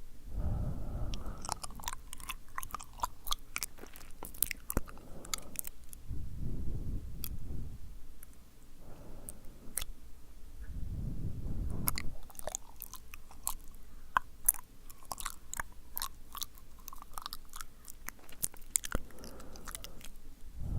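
Close-miked wet mouth sounds: sticky lip and tongue clicks and smacks in quick irregular runs, with three longer breathy blows into the microphone about a second, seven seconds and eleven seconds in.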